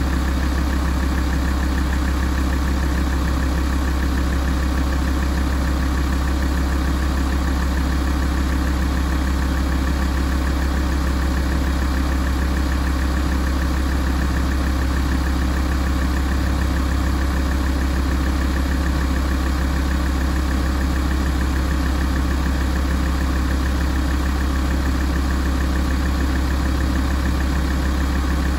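Alfa Romeo 166 facelift's 2.4 JTDm five-cylinder turbodiesel idling steadily while warming up, with a deep even hum.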